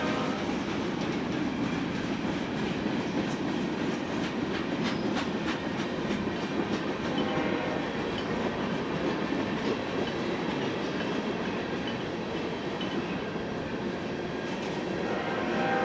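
Freight train rolling steadily past, its cars' wheels clicking over the rail joints.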